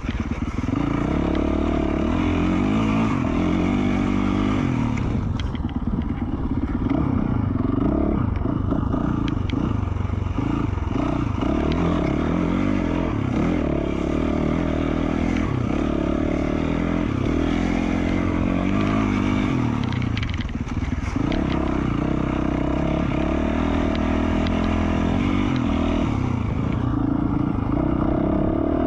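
2020 Yamaha YZ450F single-cylinder four-stroke dirt bike engine, with an FMF Q4 slip-on exhaust, being ridden on trail. The revs rise and fall with the throttle, dropping off briefly about five seconds in and again around twenty seconds in, over some clattering from the bike.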